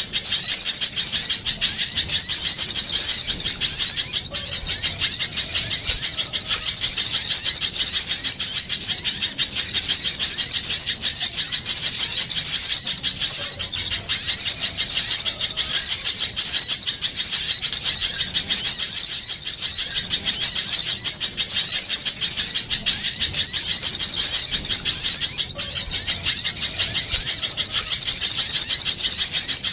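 Bird-lure recording of small birds calling at once: dense, rapid, high-pitched chirping and chattering without a pause.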